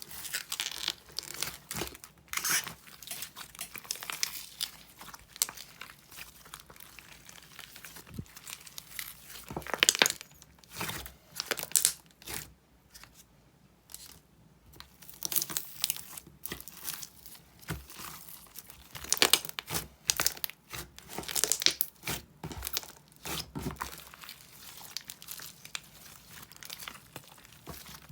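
Irregular crinkling and crackling with sharp clicks, coming in bursts, with a quieter pause about halfway through.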